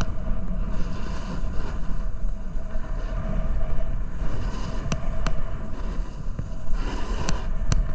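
Snowboard edge scraping and chattering over icy, hard-packed snow, with wind buffeting the microphone. A few sharp clicks come about five seconds in and again near the end.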